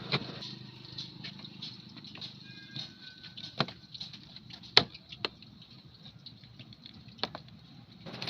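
Scattered sharp clicks and knocks, a handful of them louder, over a faint background hiss.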